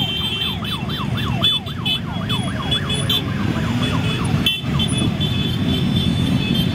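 A siren yelping, about three rises and falls a second, fading out about four seconds in. Underneath it the engines of many motorcycles run steadily as the parade passes.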